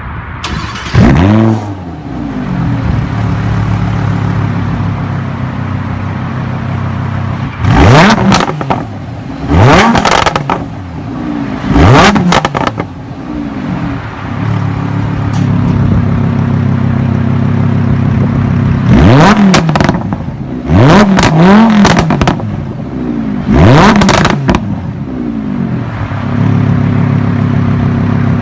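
Lamborghini Huracán LP610-4's 5.2-litre naturally aspirated V10 idling, revved in about eight quick throttle blips that each rise sharply and fall straight back to idle.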